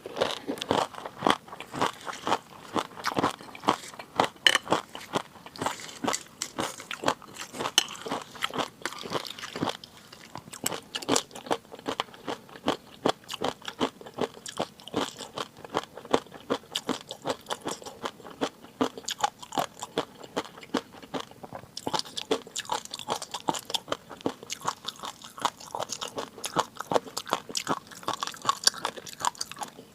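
A person eating close to the microphone: steady close-up chewing with many short, sharp crunching clicks several times a second.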